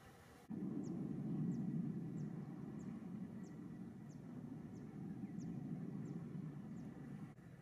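Outdoor ambience: a small bird's thin, high call, a short falling note repeated about twice a second, over a steady low rumble.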